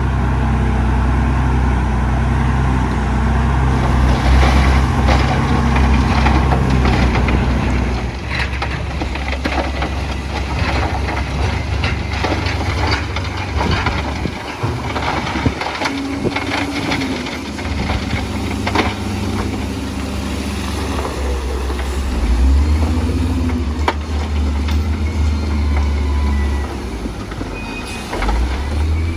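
Heavy diesel construction machinery running: a deep, steady engine drone, with a run of clanks and knocks through the middle.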